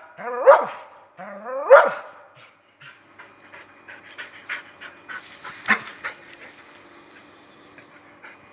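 Dogs barking twice in quick succession at a cat cornered up a fence. Faint scattered clicks follow, and about halfway through there is a single sharp knock.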